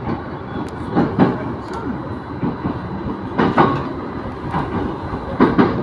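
Electric commuter train running on the rails, heard from aboard, with the clickety-clack of wheels crossing rail joints. The clicks come in quick pairs, one bogie then the next, about every two seconds over a steady running rumble.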